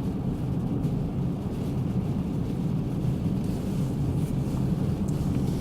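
Steady low rumble of a car driving, heard from inside the cabin, with strong wind blowing against the car.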